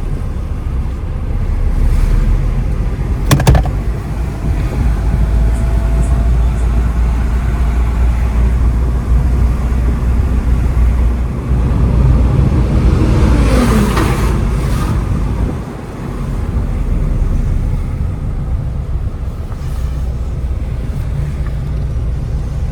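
Car driving on a road: a steady low rumble of engine and tyres, with a sharp knock about three seconds in and a brief louder swell with a falling tone a little past the middle.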